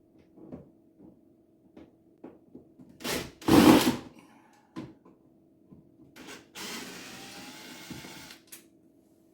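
Screws being taken out of a dishwasher's side panel with a power screwdriver, amid small clicks and taps of handling. A loud short burst comes about three seconds in, and the driver runs steadily for about two seconds near the end.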